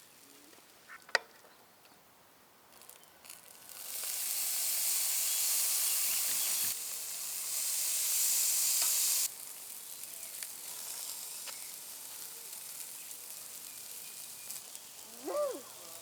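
Food sizzling and frying in hot fat over a campfire. A sharp click comes about a second in; the sizzle is loudest in the middle stretch, then cuts off suddenly and carries on more softly.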